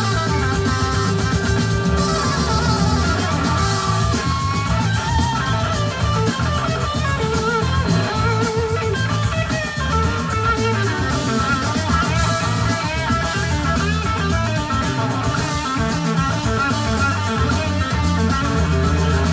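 Live rock band playing loud and steady, electric guitar out front over a drum kit.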